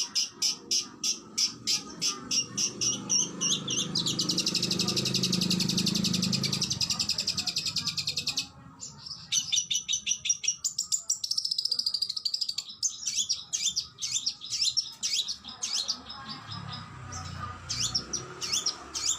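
Oriental magpie-robin (kacer) singing a fierce fighting-style song: quick volleys of sharp repeated notes, a long very fast trill that cuts off abruptly about halfway, then more rapid volleys and varied phrases, over a faint low rumble.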